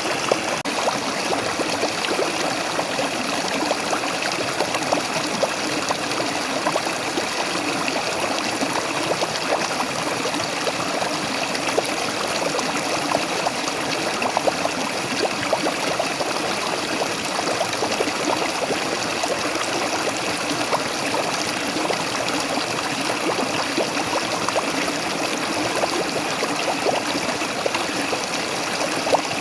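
Waterfall: water splashing and rushing steadily, with many small splashes over an unbroken wash of noise.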